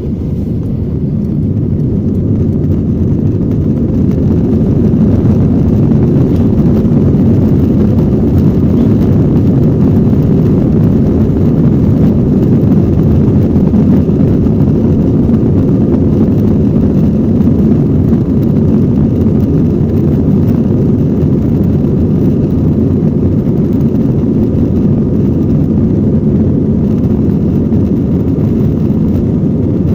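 Jet airliner taking off, its engines at takeoff power: a loud, deep rumble that builds over the first few seconds and then holds steady.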